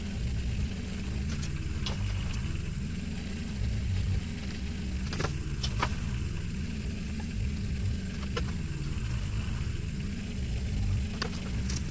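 Komatsu mini excavator's diesel engine running steadily, with a few sharp clanks about five seconds in and again near the end.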